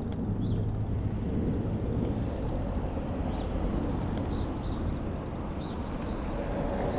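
Steady road and wind noise from riding an e-bike along a street, with faint bird chirps now and then.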